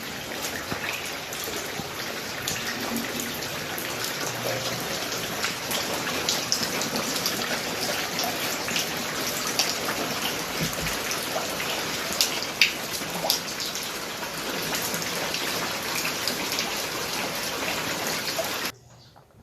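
Steady heavy rain, an even hiss dotted with many sharp individual drop hits. It cuts off abruptly near the end.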